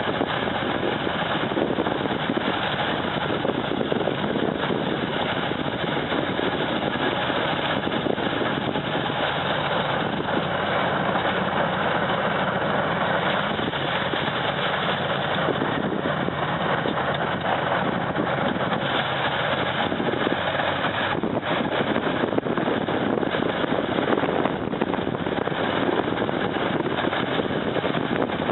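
Heavy snow-clearing machine's engine running steadily, with a dense, even rushing noise over it.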